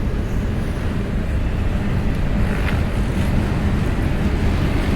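A passing train rumbling steadily, with wind buffeting the microphone.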